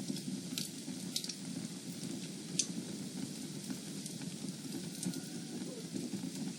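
Fire in a fireplace crackling, with a steady low rush of flames and a few sharp pops, the loudest about two and a half seconds in.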